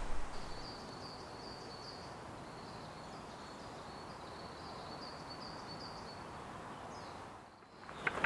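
A small bird calling a quick series of short, high notes, about two or three a second, over a steady outdoor background hiss; the calls stop about six seconds in.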